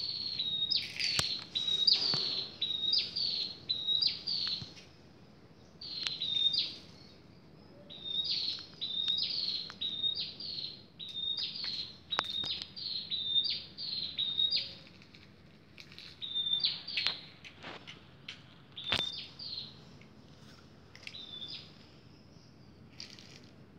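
A bird chirping over and over, short high notes that each dip and briefly hold, about two a second in runs with short pauses. A few sharp clicks fall among the chirps.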